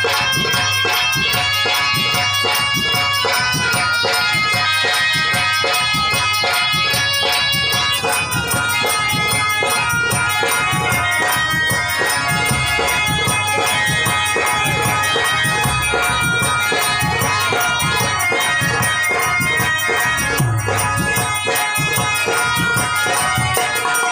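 Harmonium playing a melody of held, stepping notes over a steady rhythmic percussion accompaniment.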